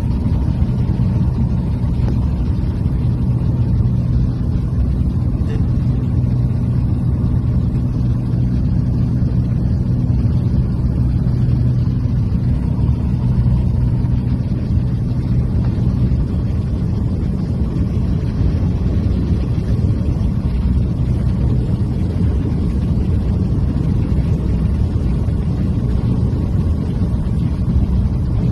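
A motor running steadily with a low hum over a rumbling wash of noise; the hum fades somewhat about halfway through.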